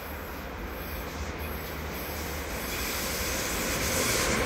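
Electric train approaching on the rails, its running noise growing steadily louder, with a high hiss building over the last couple of seconds.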